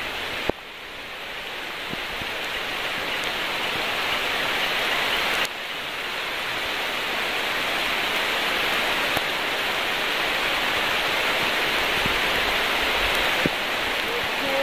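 Steady rain falling, an even, dense hiss. A sharp click comes about half a second in and another about five seconds in, each followed by a drop in loudness that slowly builds back up.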